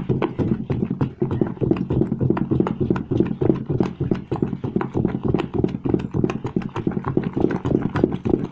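A stirrer knocking rapidly and rhythmically against the side of a container as a batch of homemade liquid soap is mixed, several knocks a second throughout.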